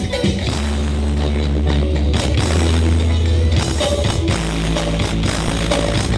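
Loud music with heavy, sustained bass notes, played through a large carnival sound system; the bass line shifts to a new pattern about four seconds in.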